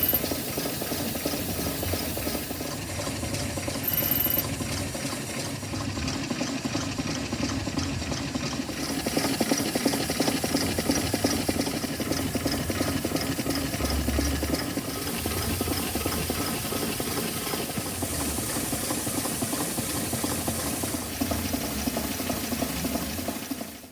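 A small model engine running steadily with a fast, even mechanical beat and a hiss over it.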